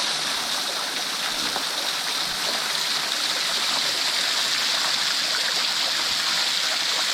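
Small spring-fed waterfall, water seeping out of a sandstone cliff, running and splashing down in a steady hiss.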